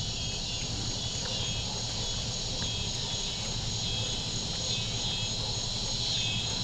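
Steady evening chorus of crickets and other insects trilling high and continuous, over a low steady hum.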